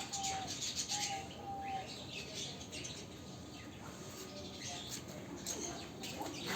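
Caged pet birds chirping, many short high chirps overlapping, with a few brief level whistled notes in the first two seconds.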